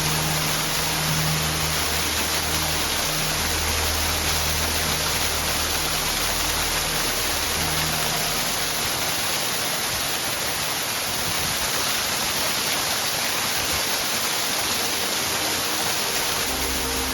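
Small waterfall rushing steadily, with a low hum of steady tones under it in the first half and again near the end.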